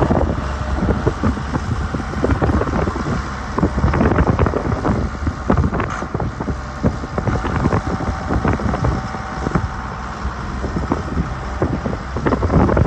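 John Deere 7400 tractor's six-cylinder diesel engine running steadily, with wind buffeting the microphone.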